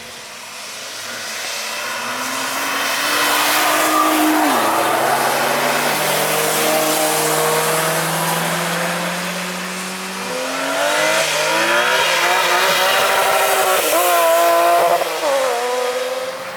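Cars passing at speed on a wet track, two passes in turn, each engine note rising and then dropping as it goes by, over the hiss of tyres on wet tarmac.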